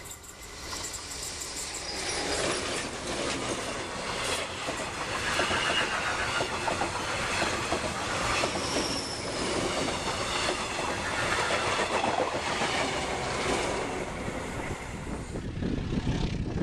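Metrorail 5M2A electric multiple unit passing close by, rising in loudness as it approaches, its wheels clattering over the rails. A brief high wheel squeal comes about halfway through.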